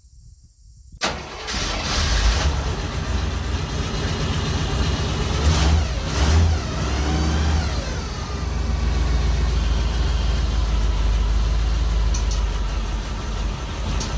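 Jeep J20 pickup engine cold-started: it catches about a second in, is revved briefly a couple of times with the pitch falling back, then settles into a steady warm-up idle.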